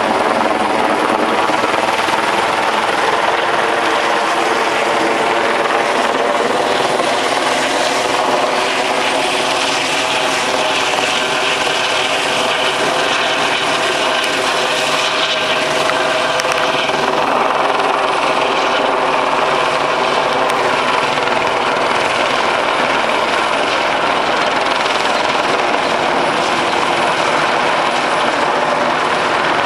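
Helicopter hovering low overhead: a steady, unbroken drone of rotor and engine.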